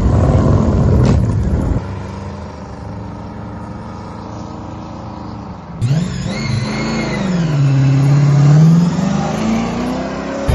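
Motor vehicle engines: a loud rough revving burst, then an engine idling steadily, then from about six seconds in an engine revving, its pitch falling and rising again.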